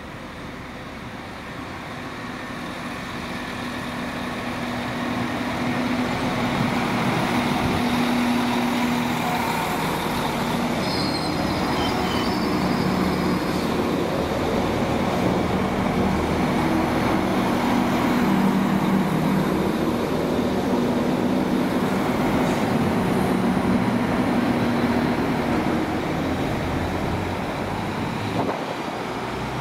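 A train running past close by, its engine note and rumble swelling over the first few seconds and then holding steady for about twenty seconds.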